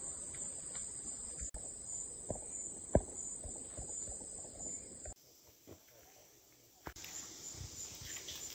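Forest insects chirping in a steady high-pitched chorus. It cuts off suddenly about five seconds in and comes back as pulsing chirps about two seconds later, with a few soft knocks along the way.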